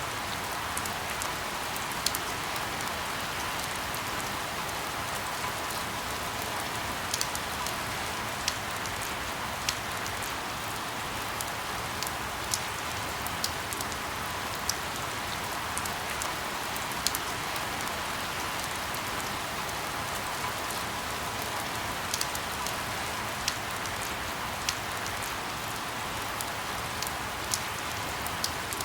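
Steady rain falling, an even hiss with scattered sharper drops ticking at irregular intervals.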